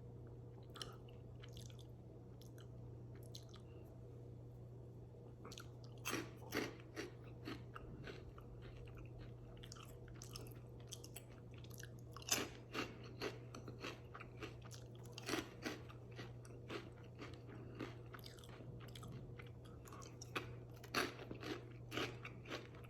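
A person chewing crunchy super-hot cheese puffs with the mouth, in irregular clusters of sharp crunches that start about six seconds in and recur through the rest.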